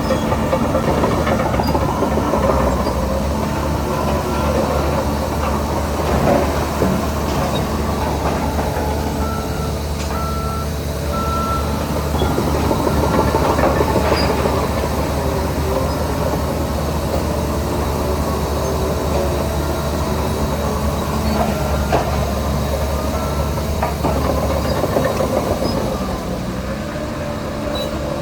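Shantui DH17C3 crawler bulldozer working: its diesel engine running with clanking and squeaking from its steel tracks, and a low engine hum that drops away near the end. A reversing alarm beeps three times about ten seconds in.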